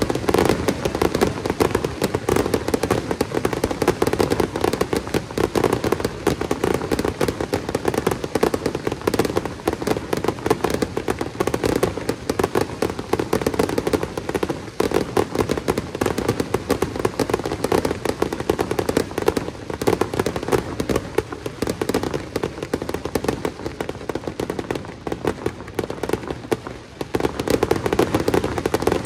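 Fireworks display: a dense, unbroken barrage of bangs and crackles, easing briefly near the end.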